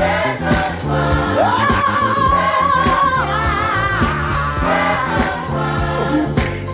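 Gospel song with band and choir: a singer holds a long note with vibrato, starting about a second and a half in, over bass and drums.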